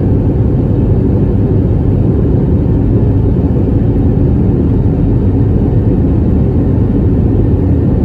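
Airbus A320neo's Pratt & Whitney PW1100G geared turbofan engines at high thrust, heard from inside the cabin as a loud, steady rumble with the airframe and airflow noise of the climb-out.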